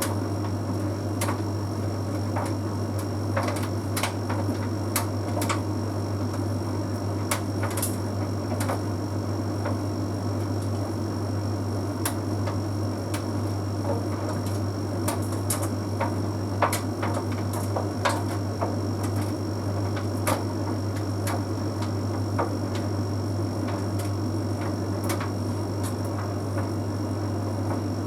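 Bosch Series 6 heat pump tumble dryer running steadily mid-cycle with a constant low hum and a faint high whine, and irregular light clicks every second or so.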